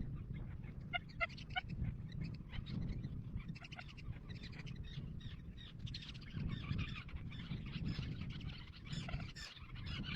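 Birds calling: short, repeated pitched calls, several close together about a second in and more scattered later, over a faint low rumble.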